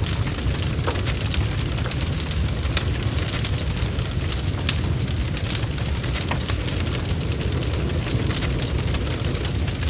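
Wood fire burning steadily, with frequent sharp pops and crackles over a low rumble of the flames.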